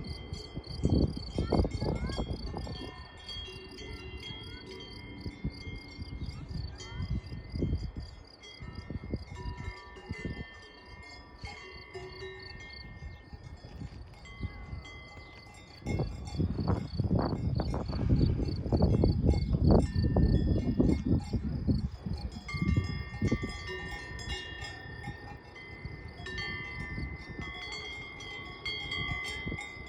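Cowbells ringing irregularly, several bells with overlapping, lingering metallic notes. Wind rumbles on the microphone in gusts, strongest in the middle stretch.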